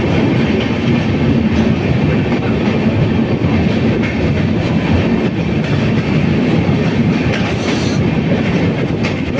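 Train running along the rails, a steady loud noise of wheels on track, with a brief hiss about eight seconds in.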